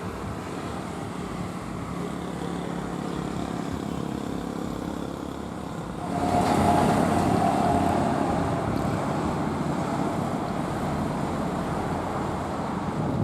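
Jet airliner engines running as a steady rumble. About six seconds in it swells sharply, with a droning tone on top, then slowly fades.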